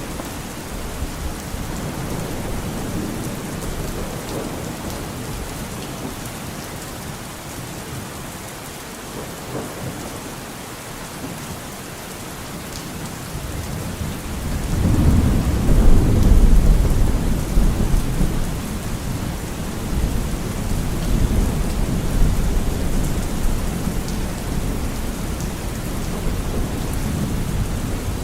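Steady rain falling, with a rolling thunder rumble that builds about halfway through, peaks a couple of seconds later and slowly fades back under the rain.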